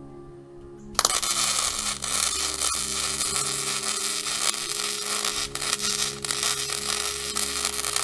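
Wire-feed welding arc crackling and sizzling steadily, starting abruptly about a second in.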